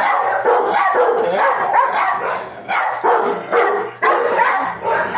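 Shelter dogs in their kennels barking, many calls overlapping with hardly a break.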